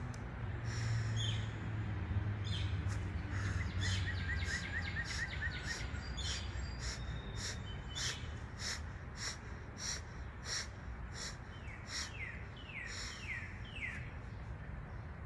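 Songbirds singing and calling in the woods: a long run of sharp high chirps repeated about twice a second, a quick trill about four seconds in, and a few falling whistled notes near the end, over a low rumble that fades after the first few seconds.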